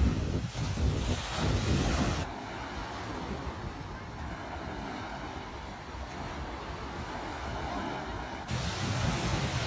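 Ocean waves washing on a beach, with wind buffeting the microphone. About two seconds in the sound cuts abruptly to a quieter, duller wash, and the louder wind-blown surf cuts back in shortly before the end.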